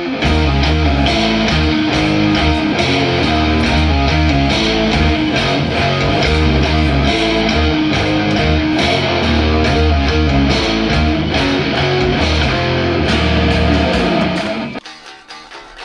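A heavy rock band jamming: an electric guitar riff with bass and drums, which stops abruptly near the end.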